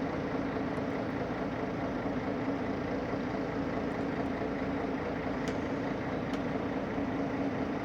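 Steady engine drone and road noise heard inside a truck's cab while it drives at highway speed.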